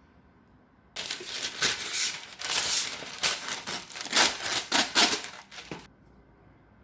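Something crisp being crushed: a dense run of sharp crackles that starts abruptly about a second in, goes on for about five seconds and stops suddenly.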